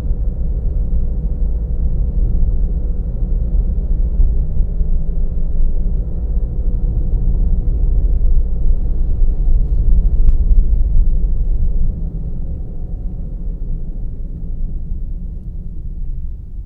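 Steady low rumble of a car driving, heard from inside the car: road and engine noise with a faint steady hum. There is a single sharp click about ten seconds in, and the rumble eases after about twelve seconds.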